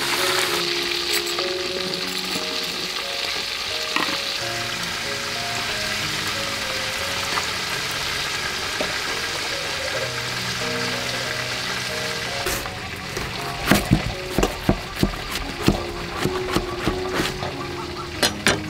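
Food frying and sizzling in a pan, with a steady hiss, over background music. Past the middle comes a run of about a dozen sharp knocks.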